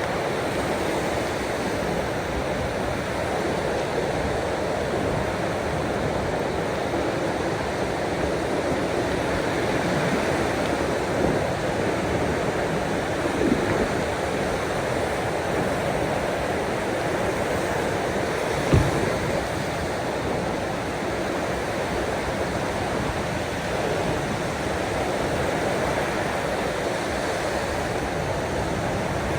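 Steady wash of sea waves, even and continuous, with a brief low thump about 19 seconds in.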